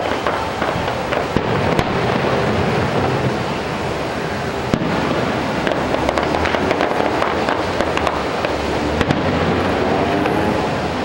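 Fireworks going off in a dense, continuous run of bangs and crackles, with sharper single bangs about two seconds, five seconds and nine seconds in.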